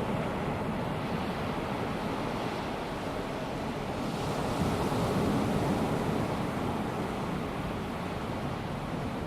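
Small waves of a calm sea washing onto a sandy beach in a steady hiss, swelling a little louder about five seconds in as a wave breaks.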